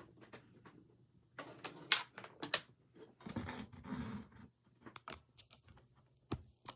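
Handling noise: a string of clicks, taps and short rustles as things are picked up and moved about, busiest in the first half.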